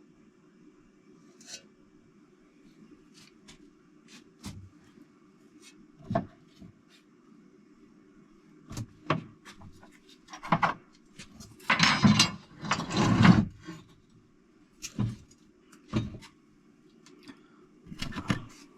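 Scattered knocks, clicks and clinks of engine parts and tools being handled, with two longer, louder rubbing or scraping sounds about two-thirds of the way through, over a steady low hum.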